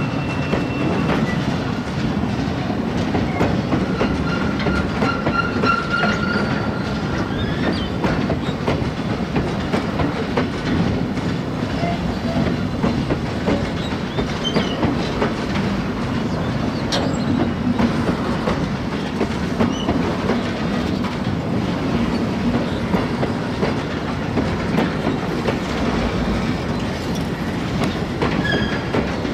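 Bogie oil tank wagons of a freight train rolling past close by: a steady rumble of wheels on rail with rhythmic clickety-clack over the rail joints. A brief faint high squeal rises above it about four to seven seconds in.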